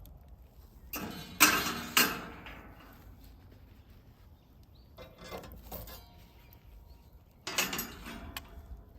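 A few sharp knocks and clatters, each with a short ringing tail. Two loud ones come about a second and a half in and about two seconds in, softer clatter follows around five seconds in, and another pair of knocks comes near the end.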